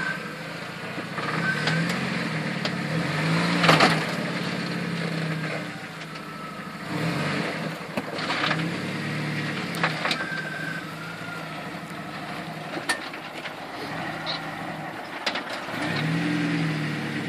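Jeep Wrangler engine working slowly over rock, its revs rising and falling in several surges, with a few sharp knocks along the way, the loudest about four seconds in.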